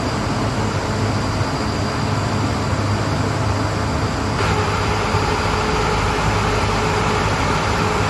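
A vehicle engine running steadily, a low even drone with a hiss over it; the sound shifts slightly about four seconds in.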